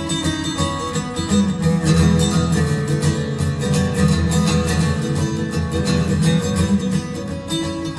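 Live music: guitars playing an instrumental passage with no singing.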